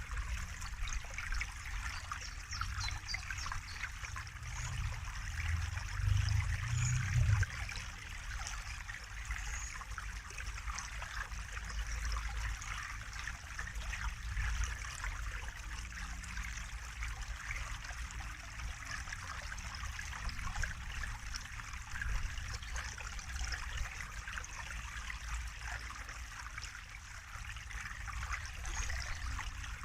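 Running water trickling and splashing steadily, with a low rumble underneath that swells briefly about five to seven seconds in.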